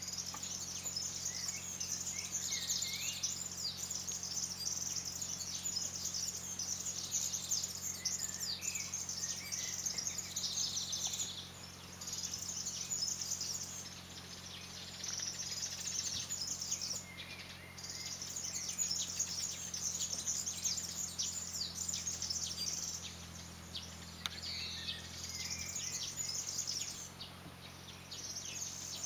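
Songbirds singing and chirping in bouts of rapid high-pitched notes with brief lulls, over a faint steady low hum.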